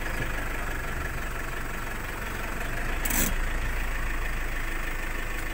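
Vehicle engine running steadily with a low hum, and a short sharp click about three seconds in.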